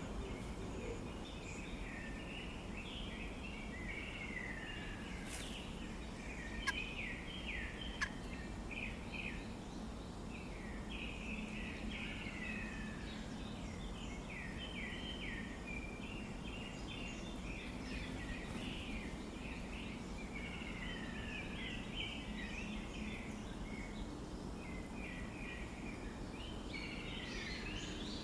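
Birds calling in a continuous dense chatter of short high chirps, with two sharp clicks about seven and eight seconds in.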